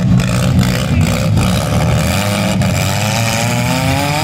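Several demolition derby cars' engines running together in a loud, steady rumble, with a few sharp knocks of cars hitting. Near the end one engine revs up, its pitch rising steadily.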